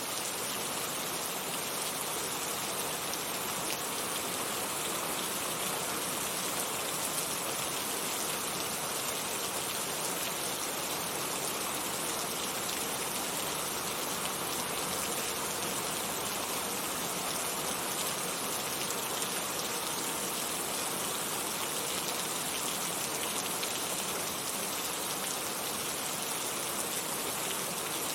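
Heavy rain falling steadily, a dense even hiss of countless drops without a break.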